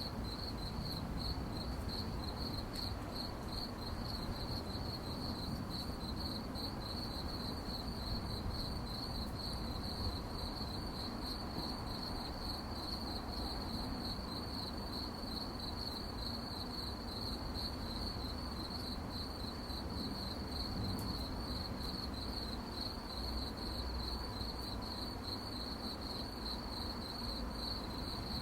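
Crickets chirping at night in a steady, rapid pulsing trill, with a low background rumble underneath.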